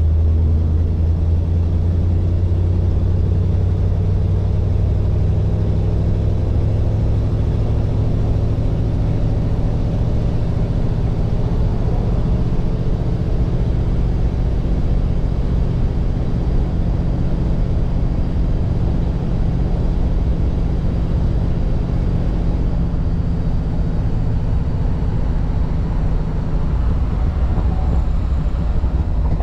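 1948 Mercury station wagon's 239 cubic inch flathead V8 running steadily while the car cruises, a low engine drone over tyre and road noise.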